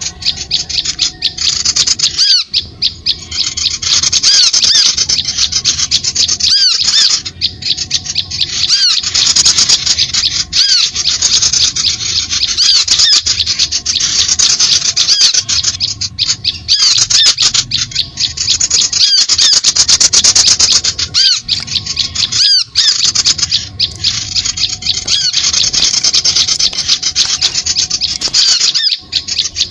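Bird-lure recording of small birds chirping and squeaking rapidly and continuously, high-pitched and densely layered, with a few brief breaks.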